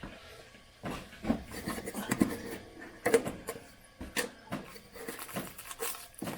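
Hands scraping, rubbing and knocking at the top of a water heater while feeling for the anode bolt: irregular scrapes and light knocks with short gaps between them.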